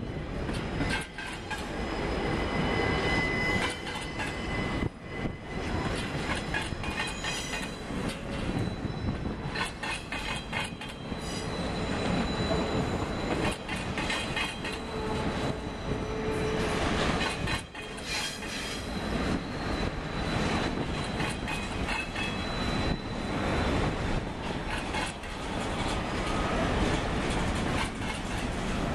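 Double-stack intermodal freight train rolling past on a curve: a continuous rumble of the well cars, with wheels clicking over rail joints and high-pitched flange squeal that comes and goes.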